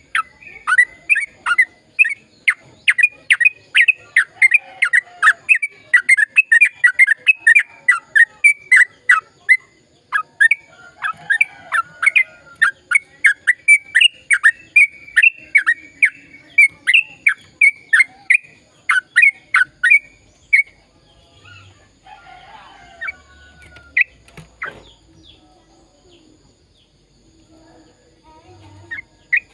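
Yellow-vented bulbul (trucukan) singing a long, fast run of sharp repeated notes, about three a second, that stops about two-thirds of the way through; after it only faint scattered sounds and a single click.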